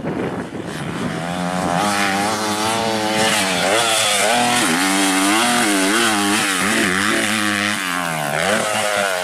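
Motocross bike engine revving, its pitch rising and falling over and over with the throttle from about a second in.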